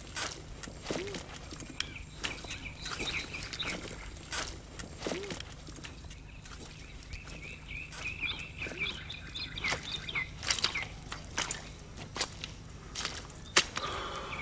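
Small birds chirping in short repeated calls, thickest in the second half, over a low steady rumble, with scattered sharp clicks.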